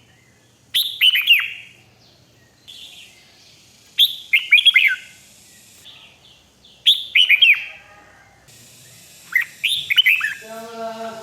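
Red-whiskered bulbul singing: four short phrases of quick, gliding whistled notes, one about every three seconds, the last longer. A lower-pitched sound comes in near the end.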